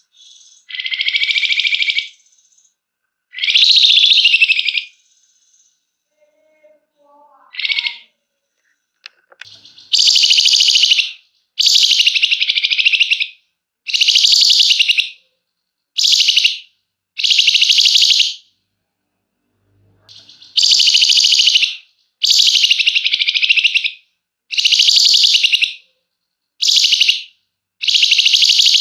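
Flamboyan bird singing its dense, buzzing 'ngebren' trill: a string of loud, high, rapid rattling bursts about a second long, repeated roughly every two seconds, after a few shorter irregular calls at the start.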